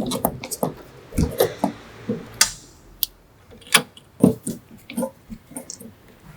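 A series of irregular clicks and knocks, hard objects handled and set down one after another.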